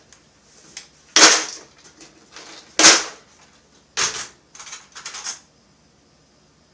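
Sharp clanks and clatter of small hard parts and tools being handled and set down on a workbench: three loud strikes about a second and a half apart, then a few lighter clicks.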